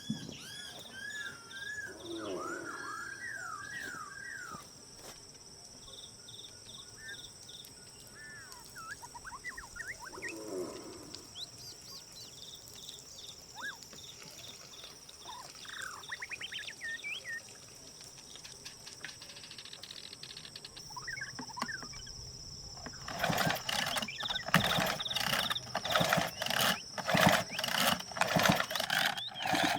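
Birds chirping over a steady high-pitched insect drone. About 23 seconds in, a fast, loud run of clicking and rattling starts and continues to the end.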